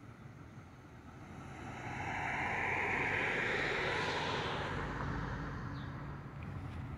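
Metra commuter train passing: a rushing rumble that swells over about two seconds, holds, then fades, over a steady low hum.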